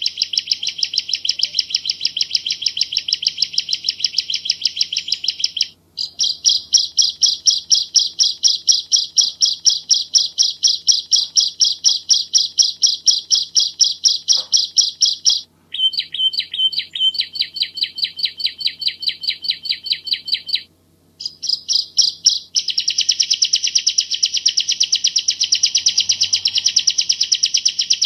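Bar-winged prinia (ciblek jawa) singing a long, rapid run of sharp repeated notes, several a second. The song breaks briefly about 6, 15 and 21 seconds in, and after about 22 seconds the notes come closer together.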